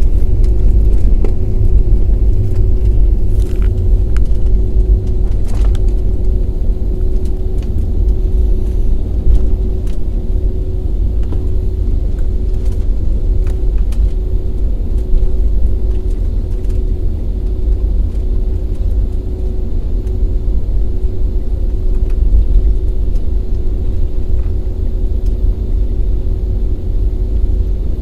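Aircraft noise: a loud, steady low rumble with a constant humming tone over it and a few faint clicks.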